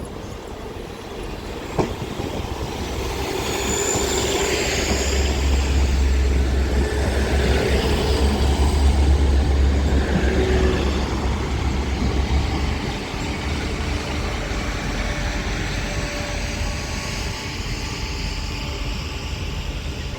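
Northern class 150 Sprinter diesel multiple unit pulling away, its underfloor Cummins diesel engines building to a loud, deep drone for several seconds and then easing off. A sharp click about two seconds in, and a brief high squeal about four seconds in.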